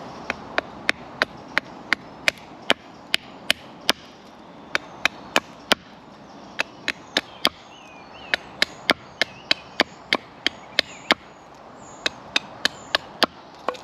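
Blade chopping into a piece of wood, sharp strikes about three a second in several runs with short pauses between them, as a bow drill spindle is shaped to a point.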